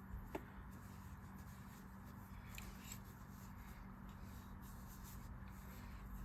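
Faint rubbing with a couple of light clicks near the start: a rag wiping old grease off a Mitchell 8230 spincast reel's rotor, over a steady low hum.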